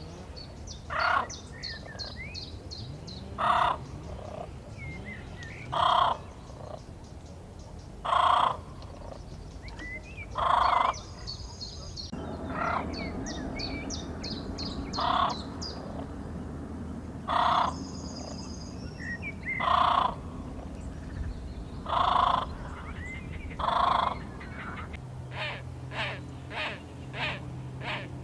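Bird calls: a loud, harsh call repeats about every two seconds, with smaller birds chirping in fast high trills in between. Near the end the calls come quicker, two or three a second.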